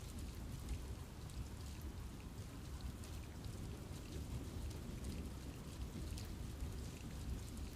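Steady rain falling in a forest, many small drops ticking on leaves over a continuous low rumble.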